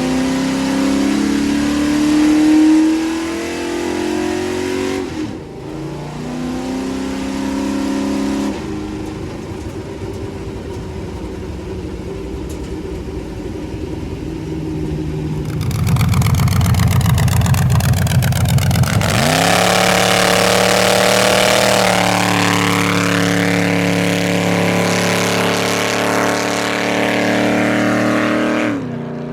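Race truck engine revving in rising pulls, then running steadily. About halfway through it goes to high revs with a loud hiss of spinning tyres, typical of a burnout, and the revs rise and fall until it drops off at the end.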